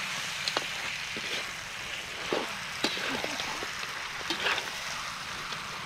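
Duck pieces sizzling as they fry in a metal wok, with a metal spatula scraping and knocking against the pan about every second as the meat is stirred.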